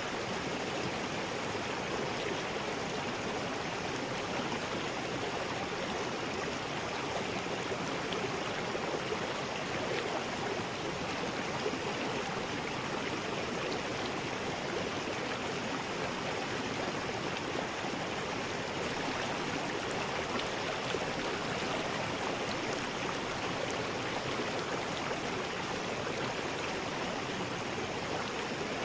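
River rapids rushing steadily, water tumbling over rocks in an even, unbroken rush.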